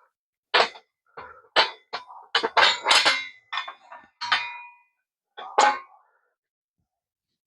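Small metal parts clinking and clattering together as they are handled and set down: a quick run of sharp knocks, some with a brief metallic ring, most of them packed into the middle of the stretch before it falls quiet.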